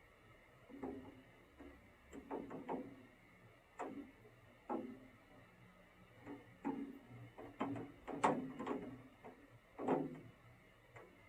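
An irregular series of about a dozen light knocks and clicks, each with a short ringing decay.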